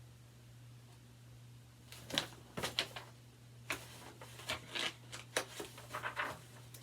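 Pages of a picture book being turned and handled: a run of papery rustles and light clicks starting about two seconds in, over a low steady hum.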